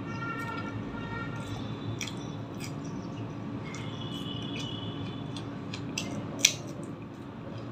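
Close-miked eating sounds: chewing paratha and egg curry, with many small wet mouth clicks and squelches, and one much sharper click near the end. Brief squeaky tones sound near the start and again around the middle.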